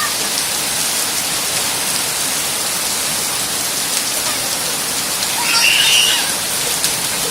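Heavy rain falling steadily in a dense, even hiss. A brief high cry stands out about five and a half seconds in.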